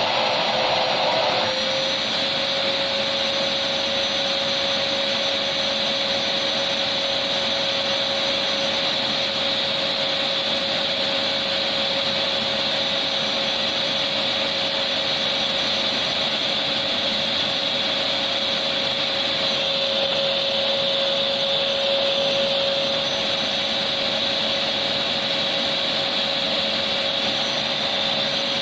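Electric vacuum cleaner running steadily: a constant motor whine under a loud rushing hiss of air. The sound shifts slightly about a second and a half in, then holds even.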